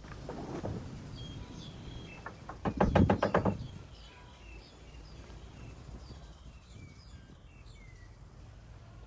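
Small birds chirping on and off, with a quick rattling burst of rapid knocks, about ten a second, lasting about a second around three seconds in.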